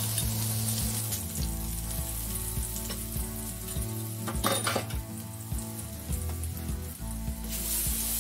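Ground chili, shallot and garlic paste sizzling as it fries in hot oil in a wok, stirred with a spatula near the end.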